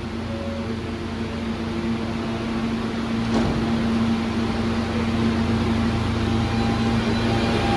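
New York City subway train coming into the station: a steady electric hum with several held tones that grows slowly louder, with a single click about three seconds in.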